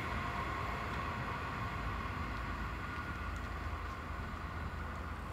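A V/Line passenger train hauled by an N-class diesel locomotive, moving away: a steady rumble of wheels on rail that slowly fades, with a faint high ringing dying away in the first couple of seconds.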